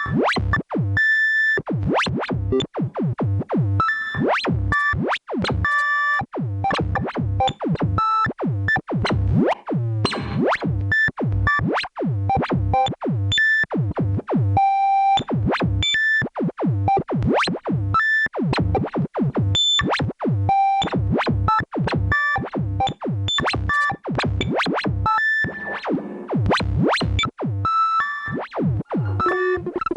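Korg Volca Modular semi-modular synthesizer playing a fast, irregular stream of short blips, several a second, each swooping steeply in pitch, with some ringing bell-like tones mixed in.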